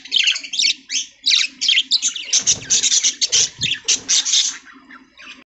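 Budgerigars chattering, a dense run of quick, high chirps and warbles from several birds at once.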